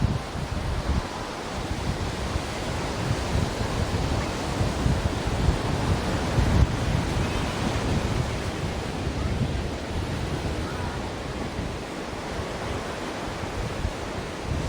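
Ocean surf washing in a steady hiss, with an uneven, gusty low rumble underneath.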